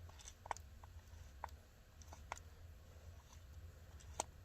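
A few faint, scattered clicks and taps of chainsaw parts being handled while the guide bar and chain tensioner are fitted.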